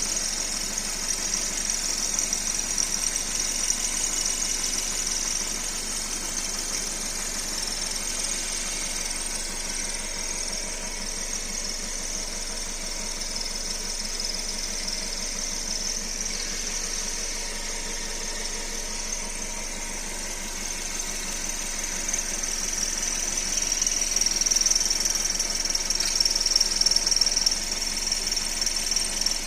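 Car engine idling, with a steady high-pitched squeak from the air-conditioning belt's tensioner pulley; it gets somewhat louder near the end.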